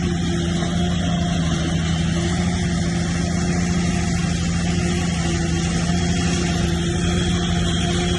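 Heavy diesel engine of an earthmoving machine running steadily at an even pitch, a constant low drone with no change in speed.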